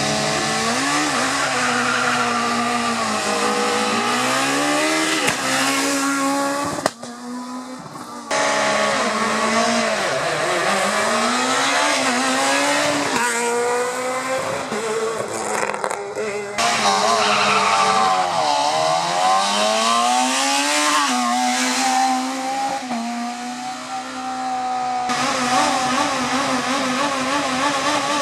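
Rally car engines revving hard, pitch climbing and dropping again and again with the gear changes. The sound changes abruptly several times, about 7, 8, 16 and 25 seconds in, as one passage gives way to another.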